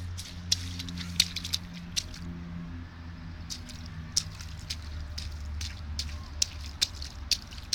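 Small irregular splashes and pats of water, about one or two a second, as a toddler steps and slaps in shallow rain puddles, over a steady low hum.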